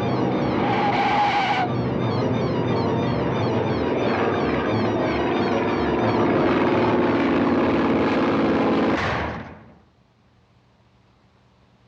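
Cartoon soundtrack of a loud, busy orchestral score over a small airplane's engine noise. It cuts off about nine and a half seconds in, leaving near silence.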